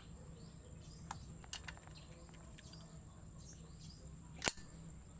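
Scattered light clicks and taps, with one sharper knock about four and a half seconds in, from hand tools and plastic parts as the motorcycle's air cleaner housing is being unfastened. A faint steady hum and a high-pitched hiss run underneath.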